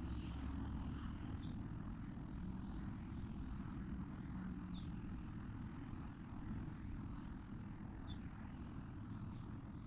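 Faint, steady low rumble of traffic, with a few faint, brief high squeaks.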